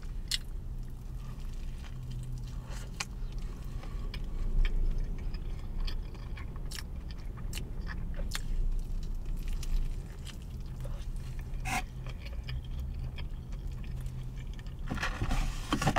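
Close-up chewing of a spicy fried chicken sandwich: many small wet mouth clicks. Another bite is taken near the end. A low steady hum runs underneath.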